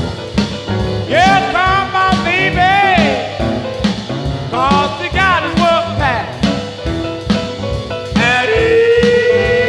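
1950s blues record: an instrumental stretch with a lead line of bending, sliding notes over a steady band beat, settling into one long held note near the end.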